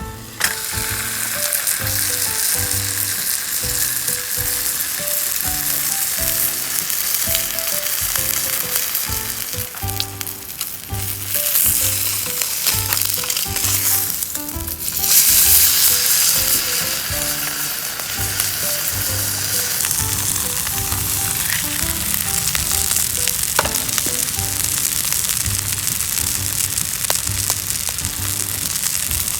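Food sizzling and frying in a pan, the sizzle swelling louder twice, about a third of the way in and again about halfway. Background music plays under it.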